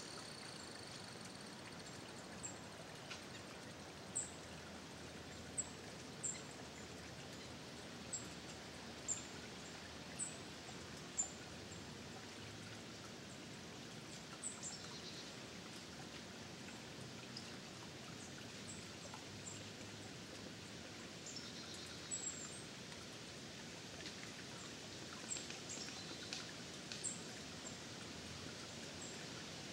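Faint steady outdoor hiss with a small bird's short, high chip notes, one every second or so at first and sparser later, and a few soft ticks or rustles in the second half.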